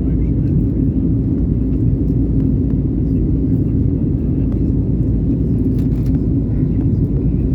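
Airliner cabin noise on take-off: a steady, loud low rumble of the jet engines and airflow with a constant hum, heard from inside the cabin.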